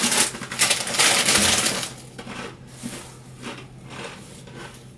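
Plastic grocery packaging rustling and crinkling as it is handled, loudest in the first two seconds, then lighter scattered crackles and taps.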